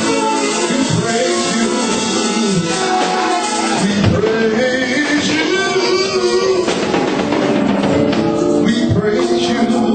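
Live gospel praise music: a band with drums and guitar playing loudly while voices sing and shout along.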